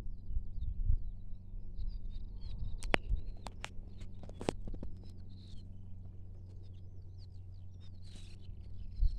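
Small birds chirping over and over, above a steady low rumble, with a few sharp clicks about three to four and a half seconds in.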